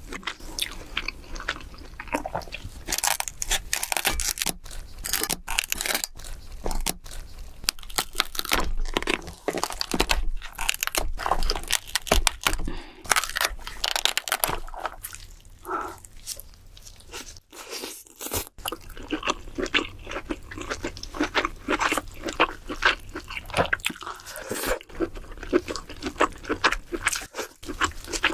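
Close-miked eating of king crab: irregular crunching and crackling of crab shell, mixed with chewing and wet mouth sounds, with a brief lull a little past the middle.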